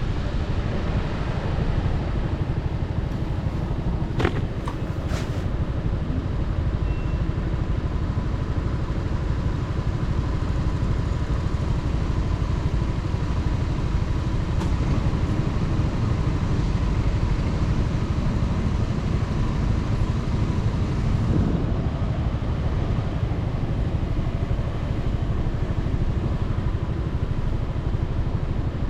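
A motorcycle riding along, heard from on board: steady engine and road noise with wind rush on the microphone, and a couple of brief clicks about four seconds in.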